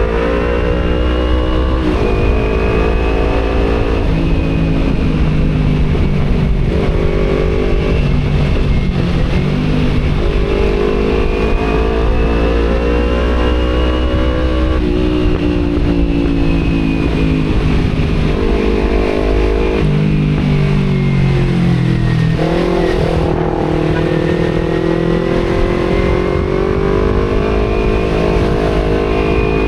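Kawasaki Z250 parallel-twin engine with a remapped tune and an Akrapovic aftermarket exhaust, ridden in traffic. It runs continuously, revving up and easing off many times, with the engine note stepping up and down in pitch, over steady wind and road noise.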